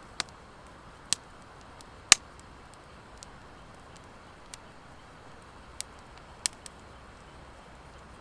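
Wood fire crackling: about nine sharp pops from the burning firewood, the loudest about two seconds in, over a steady soft hiss. The pops come from the dry hardwood mixed in with the driftwood, which burns without crackling.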